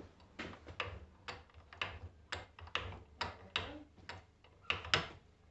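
A series of about a dozen light, sharp taps, roughly two a second, from hand work on a car starter motor on the bench.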